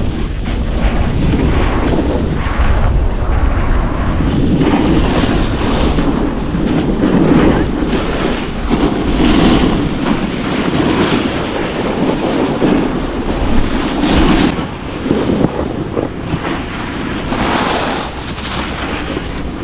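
Wind buffeting the microphone of a snowboarder's camera during a run down a snowy slope, a loud rumbling rush with the board's edge scraping over the snow in swells every second or two. It eases somewhat about three-quarters of the way through.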